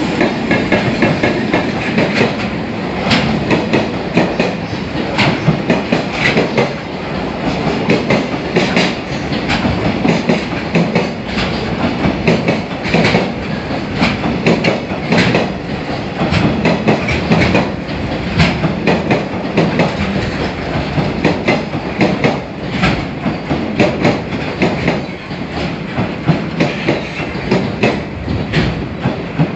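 A train running along the track close by, its wheels clattering over the rail joints in a steady clickety-clack that goes on without letting up.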